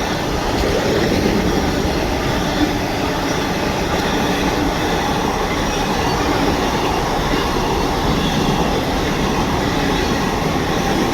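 Freight train passing at speed, its wagons rolling by in a steady rumble of wheels on rail with a faint squeal.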